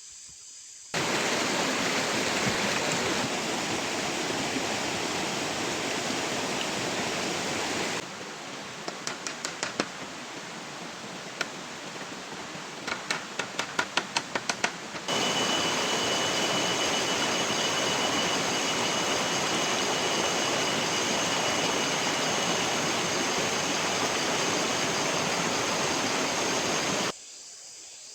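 Heavy rain, a loud steady rushing hiss, in sections that start and stop abruptly. In the quieter middle stretch there is a run of sharp ticks and taps. In the last stretch a steady high-pitched tone sits over the rain.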